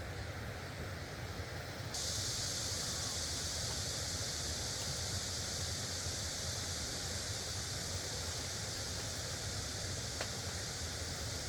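Steady rush of a loud stream, with a low rumble underneath; about two seconds in, a bright high hiss comes in suddenly and holds steady.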